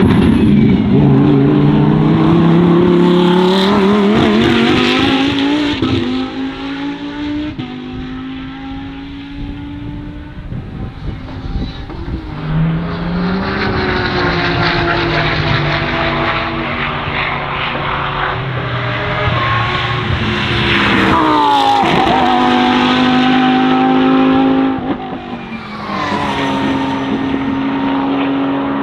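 Lamborghini Huracán Super Trofeo EVO2 race cars' V10 engines at full throttle on track. The pitch climbs and drops back again and again with the gear changes as the cars pass, fading for a few seconds in the middle and coming back loud.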